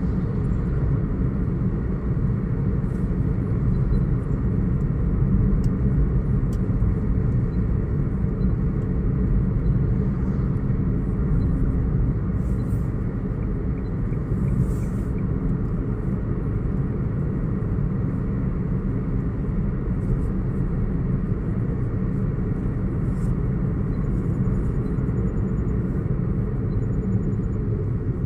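Steady low rumble of a car driving on wet streets in the rain: engine and tyre noise, even throughout.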